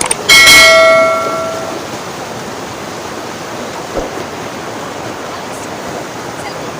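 Mountain river rushing steadily. About a third of a second in, a loud metallic ringing strike, like a bell or chime, rings out and fades over about a second and a half.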